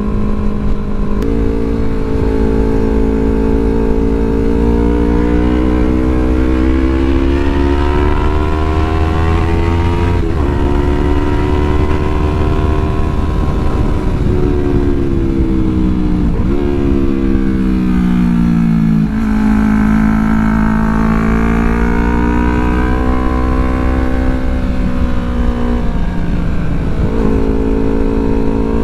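Yamaha R3's parallel-twin engine under way, its pitch climbing steadily and then dropping sharply at gear changes several times, over a heavy low wind rumble on the microphone.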